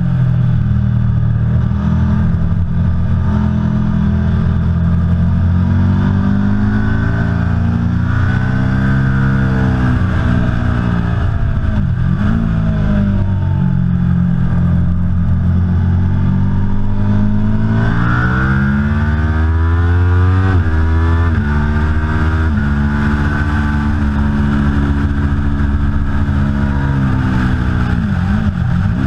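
Aprilia Tuono V4 Factory's V4 engine pulling hard at speed, its pitch climbing and falling again and again as it goes through the gears. There are quick steps down in pitch at the upshifts and brief dips where the throttle is shut.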